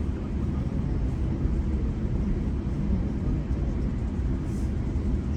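Steady low rumble of a GO Transit bilevel passenger coach running along the track at speed, heard from inside the car.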